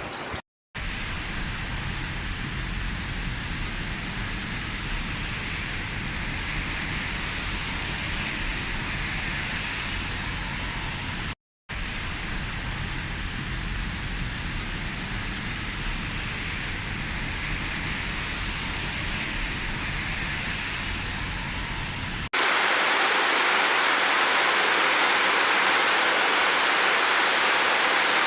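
Steady hiss of rain that drops out twice for a split second, then about 22 seconds in cuts abruptly to a louder, brighter rush of water.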